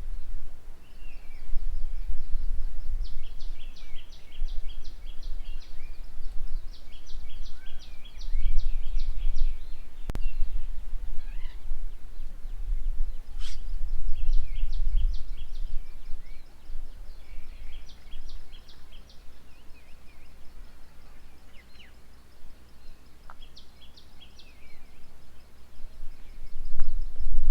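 Birds calling, with quick runs of short high notes repeated many times over a low rumble that comes and goes. One sharp click about ten seconds in.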